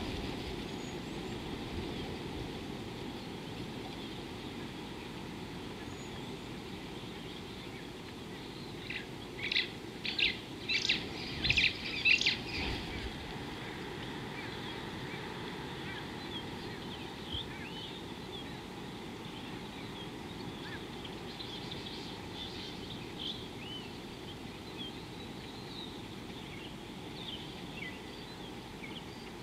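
Birds calling: a quick run of sharp, high chirps about a third of the way in, the loudest sound here, then scattered fainter chirps later, over a steady outdoor background hiss.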